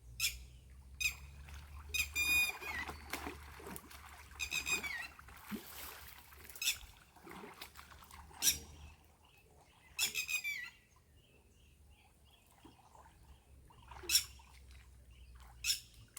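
A bird calling three times, high-pitched calls that drop in pitch at the end, among scattered sharp clicks and knocks.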